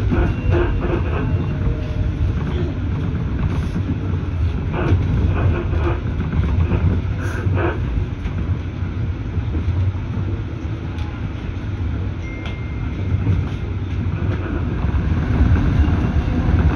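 Metro-North electric commuter train running at speed, heard from inside the front car: a steady low rumble of wheels on rail, with a few scattered clicks and knocks.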